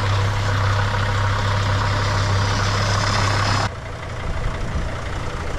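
Dodge Sprinter van's newly swapped-in engine running at a steady idle. About two-thirds of the way through the sound cuts off abruptly to a quieter, less even engine sound.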